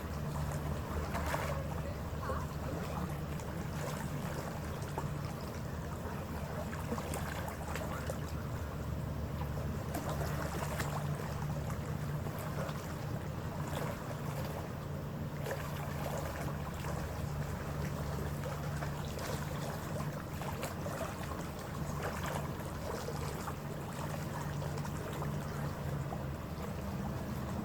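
Passenger ferry's engines droning steadily underway, a low even hum with water rushing along the hull.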